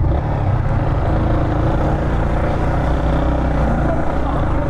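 Motorcycle engine idling steadily at an even, low pitch, with no revving.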